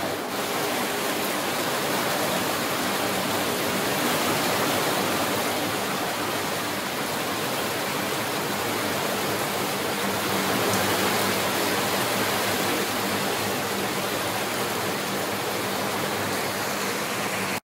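Rain falling steadily: a loud, even hiss with a faint low hum beneath it.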